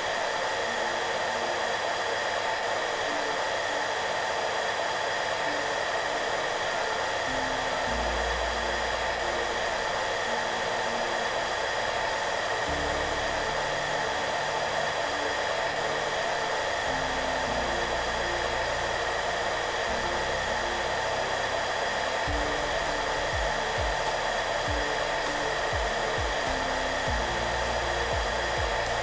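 Hairdryer running steadily, an even airy hiss with a faint motor whine. Soft background music plays under it, its low held notes coming in after several seconds, with a few soft low thumps near the end.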